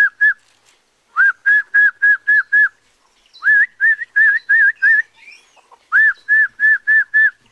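Loud, clear whistled notes repeated about four times a second in runs of five or six, each note sliding up into a steady pitch, with short pauses between the runs.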